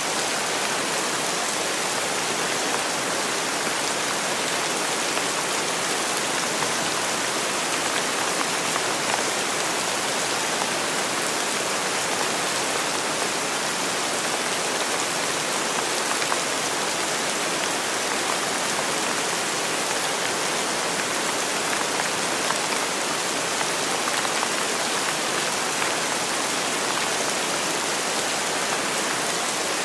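Steady rainfall, an even hiss of drops with faint scattered patters.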